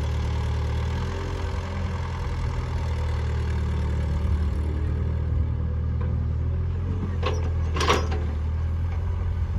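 A diesel engine running steadily at idle with a low hum. Two sharp knocks come about seven and eight seconds in, the second the louder.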